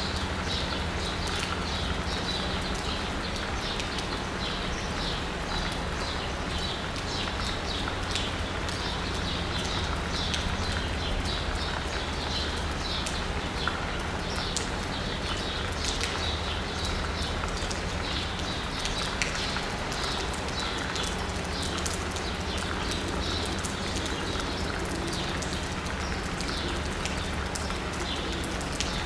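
Steady rain pattering on asphalt and rooftops, with many separate drops ticking and dripping, while birds chirp over it again and again. A low, steady hum of city traffic runs underneath.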